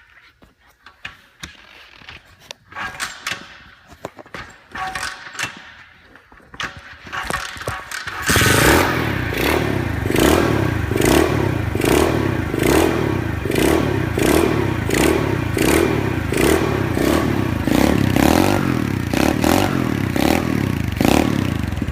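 A 2015 SSR SR110DX pit bike's small four-stroke single-cylinder engine being started: about eight seconds of clicks and scrapes, then it catches and runs loudly, its note rising and falling about three times every two seconds, before cutting off at the very end.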